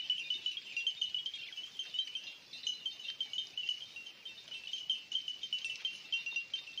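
A steady insect chorus: rapid, high-pitched chirping with no break.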